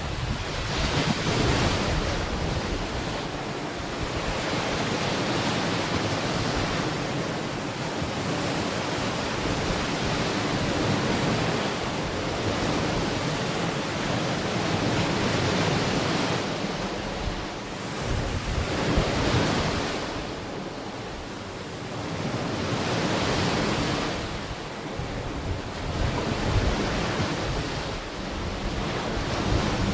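Ocean surf: waves breaking and washing onto the shore, the wash swelling and fading every few seconds, with wind rumbling on the microphone.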